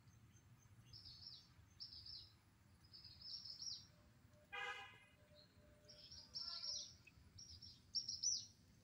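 Songbird chirping in quick repeated phrases of high, sweeping notes, loudest near the end. A short tonal toot sounds about halfway through.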